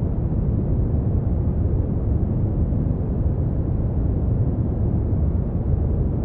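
Brown noise: a steady, deep rumbling hiss with most of its energy in the bass, fading off toward the treble, unchanging throughout.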